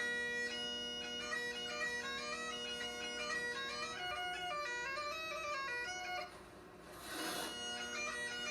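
Bagpipes playing a tune on the chanter over a steady drone. The playing breaks off about six seconds in, and after a short hiss it starts again about a second and a half later.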